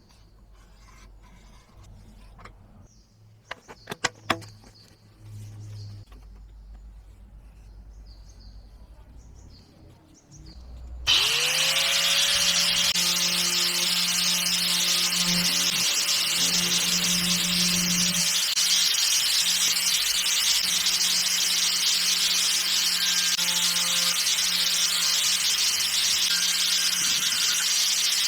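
A few light knocks and handling sounds, then about eleven seconds in an electric power tool spins up and runs steadily at speed with a loud cutting or grinding hiss, working on the PVC or motor parts. It stops for a moment near the end and spins up again.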